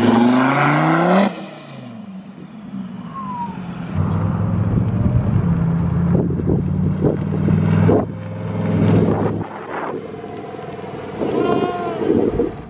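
A car engine revs up, rising in pitch, then cuts off about a second in. It is followed by a low, steady engine drone with louder swells of revving partway through.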